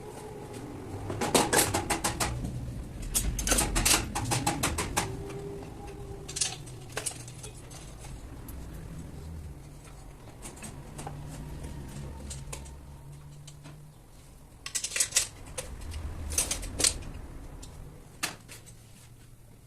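Clicking and tapping of hard parts being handled, in quick clusters about a second in, around four seconds in and again near the end, over a low background hum.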